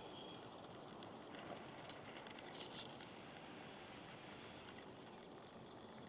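Near silence: a faint, steady outdoor background hiss with a few soft clicks about two and a half seconds in.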